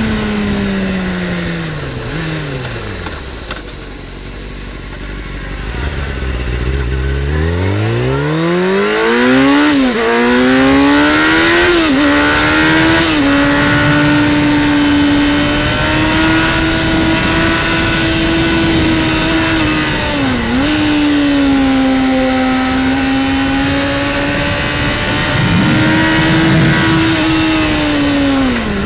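Sport motorcycle engine heard from on board. The revs fall away for a few seconds as it slows, then it accelerates hard through several quick gear changes. It holds a steady high-revving tone, with a brief dip in revs about twenty seconds in.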